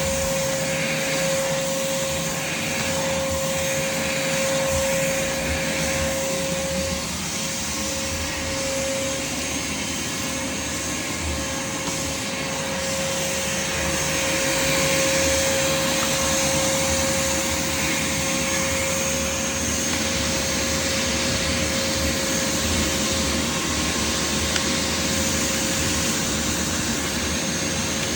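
Craftsman shop vac running steadily while vacuuming, a constant rushing whine with a steady hum throughout and small swings in loudness as the nozzle moves.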